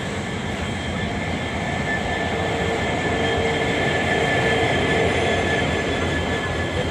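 A passenger train running, heard from an open coach door: a steady rumble and rattle of wheels on the track, with a faint steady whine, a little louder in the middle.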